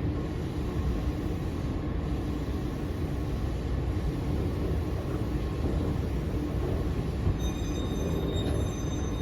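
Eizan Electric Railway 900 series 'Kirara' electric train running, heard from inside the car as a steady low rumble. About seven seconds in, a high metallic squeal from the wheels sets in and holds.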